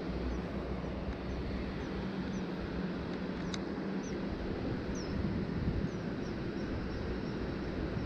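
A small bird calling over a steady rush of wind and river water, its calls short, high, falling chirps repeated about twice a second.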